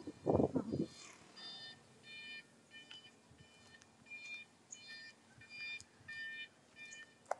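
A small bird chirping: short, high calls repeated at uneven intervals, about a dozen of them. A few low thumps come in the first second, and a single sharp click comes near the end.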